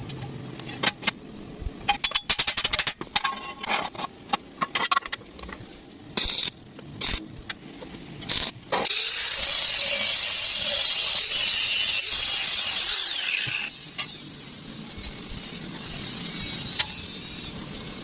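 Metalworking sounds: a quick run of clicks and metal knocks, a few sharp impacts, then a power tool running with a high-pitched hiss for about five seconds before it drops away.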